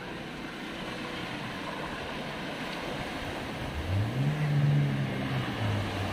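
A car engine revs up about four seconds in as a black MPV drives through deep floodwater, holds, then eases off near the end. Underneath runs a steady wash of water noise from the wave the car pushes aside.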